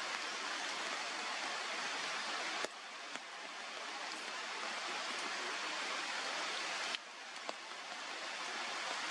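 Steady rushing, hiss-like outdoor noise. It drops suddenly twice, a little under three seconds in and about seven seconds in, then builds back up. A few faint clicks are heard.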